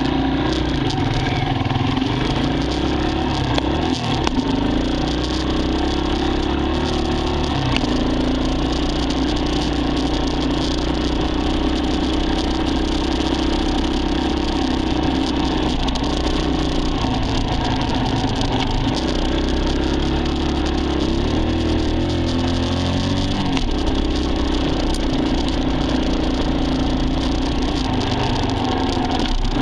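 Dirt bike engine running under load, its pitch climbing and dropping several times with throttle and gear changes.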